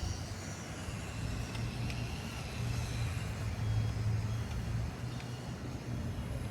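Remote-controlled LEGO Technic McLaren F1 car driving on a BuWizz electric motor: a steady whirr of motor and gears that swells a little about halfway through, with a few faint clicks.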